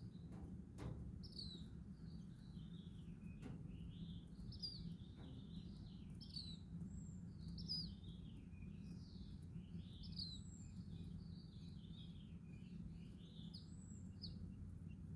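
Baby chicks peeping: many short, high, downward-sliding chirps overlapping almost without a break, stopping shortly before the end. Under them runs a steady low hum.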